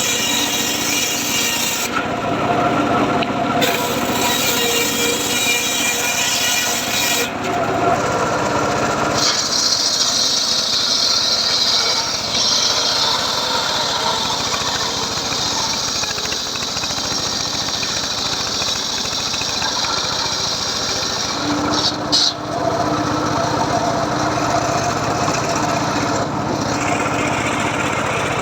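Homemade circular saw cutting teak wood, running continuously with its sound shifting as the blade moves through the cuts.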